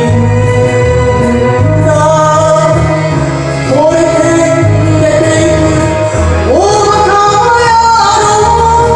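A woman singing an enka song over backing music, holding long notes that slide up into a higher pitch twice, about a third and two-thirds of the way through.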